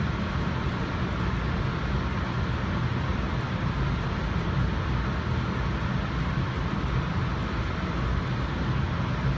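Steady ride noise of a NJ Transit commuter rail coach rolling along the track: a continuous low rumble of the car and its wheels on the rails, with a hiss of running noise over it and no sudden knocks.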